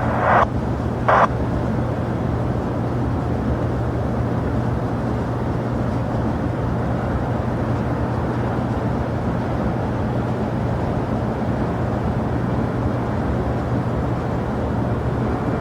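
Steady rumble of jet aircraft engines at an airport, with a constant low hum under it. Two short blips from the air-traffic-control radio come in the first second or so.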